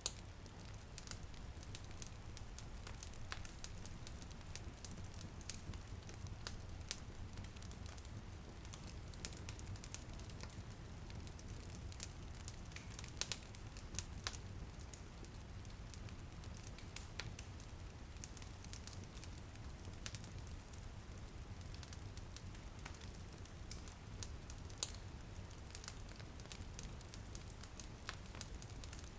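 Wood fire crackling in a fireplace, with frequent sharp irregular pops over a low steady rumble, and a faint patter of light rain.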